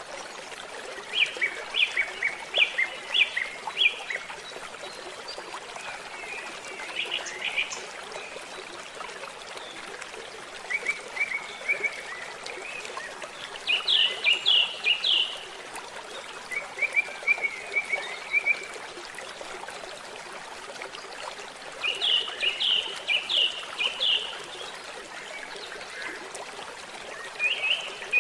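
A songbird repeating short phrases of quick, high chirps every few seconds, over a steady trickling stream.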